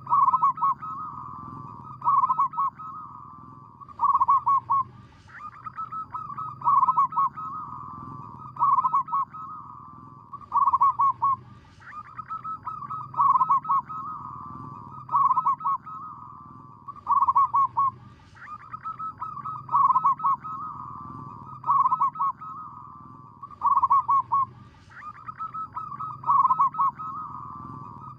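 Zebra dove cooing over and over: each phrase is a quick run of staccato notes followed by rolling coos, recurring about every two seconds.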